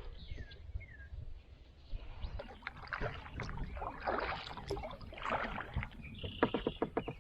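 Kayak paddle strokes dipping and splashing in the river, with a quick run of sharp clicks about a second before the end.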